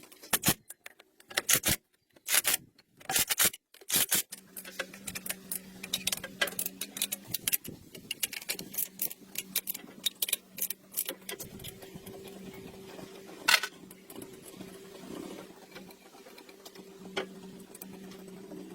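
Small metal parts clicking and clattering as they are handled. From about four seconds in, a steady low hum starts and runs under continued light clicks.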